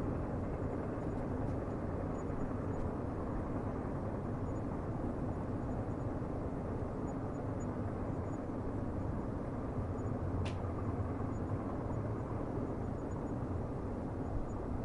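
Steady low rumble of a distant train running on the rails, with one short high tick about ten seconds in.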